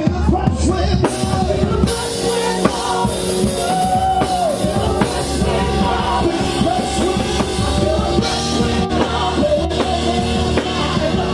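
Live worship band playing with a full drum kit and sustained instruments, with singing over it.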